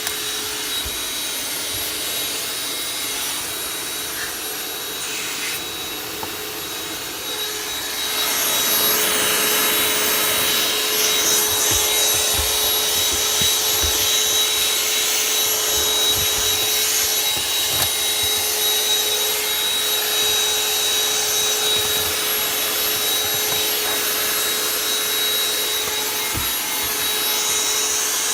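Vacuum cleaner running steadily with a motor whine. The suction rush grows louder about eight seconds in as it works over the car's interior.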